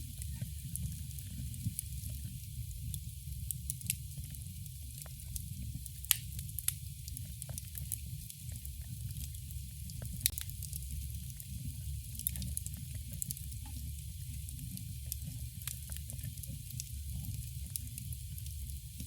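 Campfire burning: a steady low rumble of flame with frequent sharp crackles and pops of burning wood, two of them louder about six and ten seconds in.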